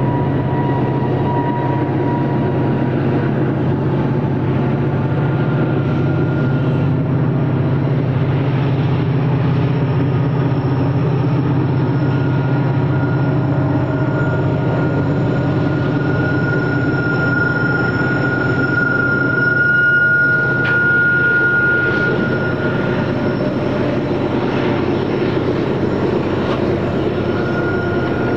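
Freight train's diesel locomotives running steadily, with a thin high-pitched squeal that grows louder through the middle and then fades.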